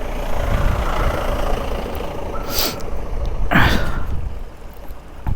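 A vehicle engine idling with a steady low rumble. There is a short hiss about two and a half seconds in, and a brief louder sweep just after halfway.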